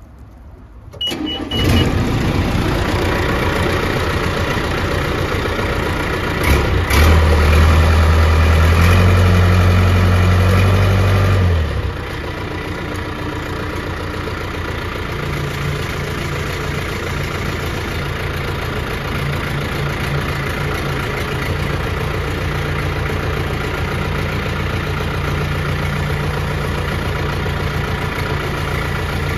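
John Deere 210C backhoe's diesel engine starting up after a short beep, running, revved up for a few seconds, then dropping back to a steady idle.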